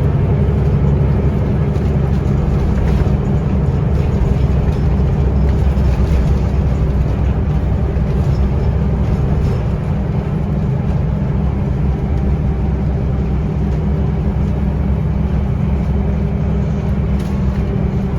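Scania L94UB bus's diesel engine and ZF automatic driveline running under way, heard from inside the cabin, steady with a slight easing about ten seconds in.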